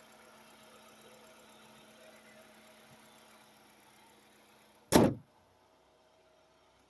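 2008 Chevy Cobalt's engine idling steadily, then a single loud slam about five seconds in, after which the engine is heard only faintly.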